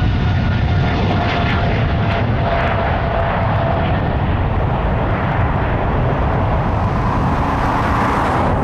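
Jet airliner's engines at takeoff thrust: a loud, steady rumble with a whine that slowly falls in pitch.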